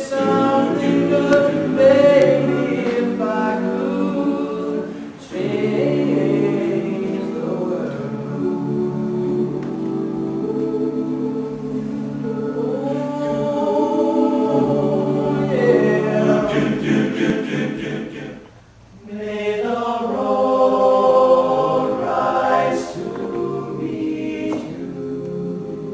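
Men's a cappella group singing in close harmony, several sustained voices with no instruments, pausing briefly between phrases about five seconds in and again near eighteen seconds.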